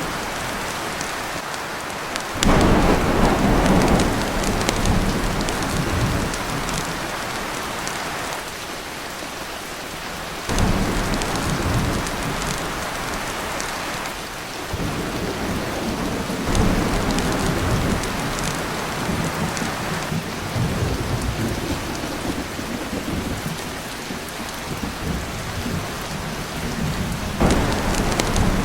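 Heavy rain drumming on a tin roof, with rolls of thunder rumbling in about four times, the first two and a half seconds in and the last near the end.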